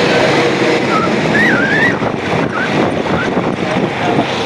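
Wind buffeting the microphone over the noise of a vehicle on the move, with a brief wavering high tone about a second and a half in.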